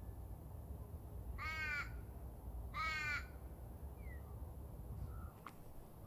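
A bird gives two loud calls, each about half a second long, a second and a half apart, over a steady low rumble of outdoor ambience that drops away near the end.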